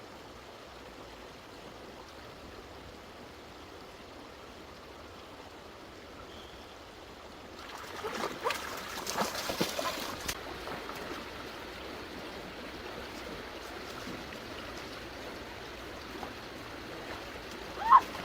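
Stream water flowing with a steady hiss. About eight seconds in there is a couple of seconds of louder splashing, and a single sharp splash comes near the end.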